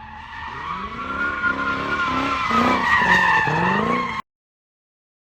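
Car tyres squealing while the engine revs up and down, cutting off abruptly about four seconds in.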